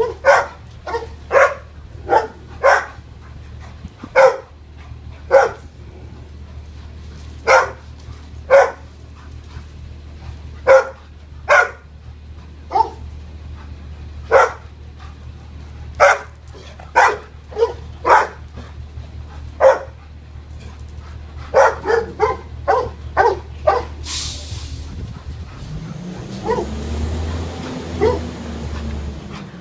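A dog barking over and over, in single barks and quick runs, with a steady low hum underneath.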